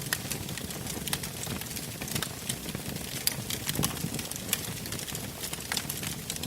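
Wood fire burning, with a steady rush of flames and frequent sharp crackles and pops from the burning wood.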